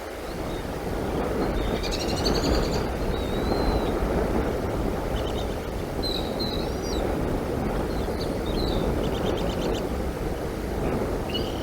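Bald eagles' high, chittering calls, a few short series of rapid chirps and slurred whistles, over a steady rushing noise of wind.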